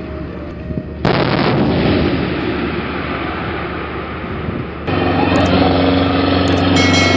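Rapid heavy gunfire breaks out suddenly about a second in and goes on for a few seconds. Just before five seconds it cuts to a heavy vehicle's engine running steadily.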